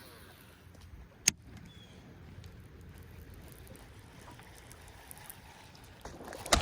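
Faint, steady low rumble of wind and water around a small jonboat on the pond, with one sharp click about a second in.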